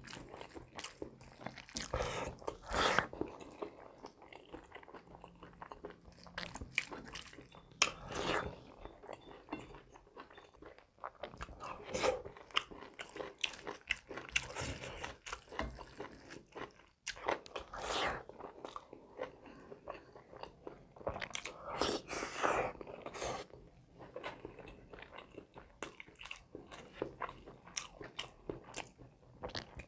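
Close-miked chewing of a person eating rice and curry by hand, with irregular louder bites and mouth sounds every second or two.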